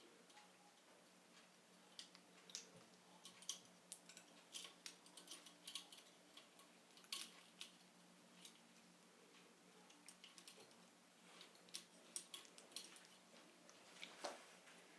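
Faint irregular clicks and taps of small hard parts being handled, over a low steady hum.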